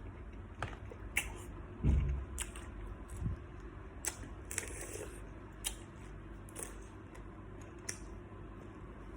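Close-up eating sounds of salt-baked shrimp: scattered crisp clicks and crackles, with a dull thump about two seconds in and a smaller one about three seconds in.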